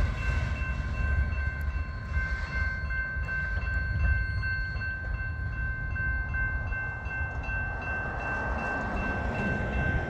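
Tail end of a freight train of loaded flatcars rolling past and moving away: a steady low rumble of steel wheels on the rails. Over it, a grade-crossing bell rings on in a fast, even high-pitched pulse.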